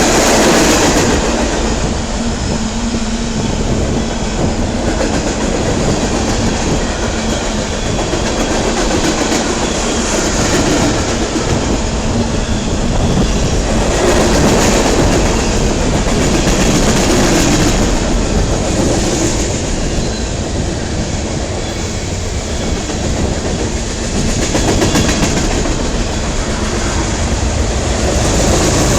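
Norfolk Southern freight train passing close at speed: a loud, continuous rush of cars rolling by on the rails.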